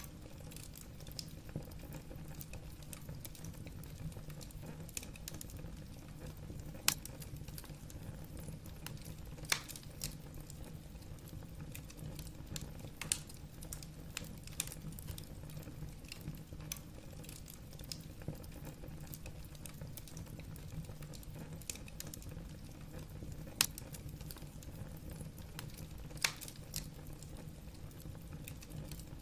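Wood fire burning in a fireplace: a steady low rumble of the flames with scattered sharp crackles and pops from the burning logs, a few of them louder.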